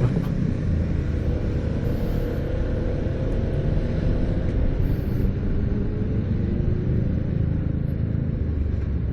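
Motorcycle engine running with a steady low rumble, mixed with road and wind noise from the ride.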